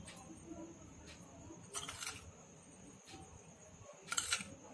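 A spoon scraping in a small container and salt being added to raw chicken for a marinade: two short scrapes about two seconds apart over a quiet background.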